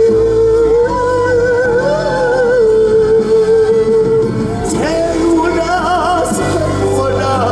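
A male pansori singer draws out one long sung note with a wavering, ornamented pitch, then shifts to new pitches about five seconds in, over a sustained instrumental accompaniment.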